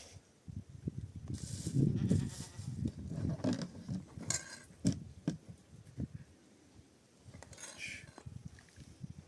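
Livestock bleating a few short times, among knocks and rustling close by.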